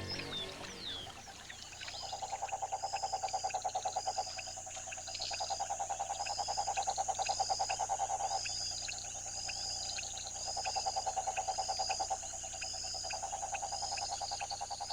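Chorus of male frogs calling for breeding: runs of rapid pulsed trills, each lasting about two seconds, start about a second and a half in. Over them run a steady high hum and a higher note repeated about once a second. Music fades out at the very start.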